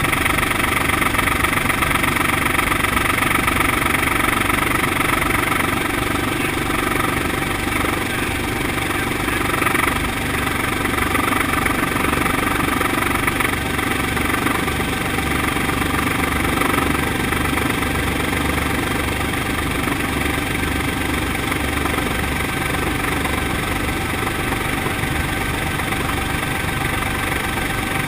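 Brantly B2B helicopter's four-cylinder piston engine and rotor running steadily, a continuous drone with a fast low pulsing, easing slightly about six seconds in.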